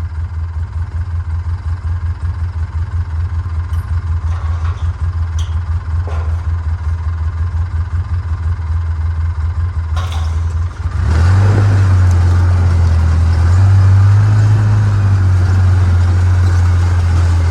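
A ranch vehicle's engine running with a low, fast pulsing, then revving up and getting louder about eleven seconds in as it pulls away and drives on.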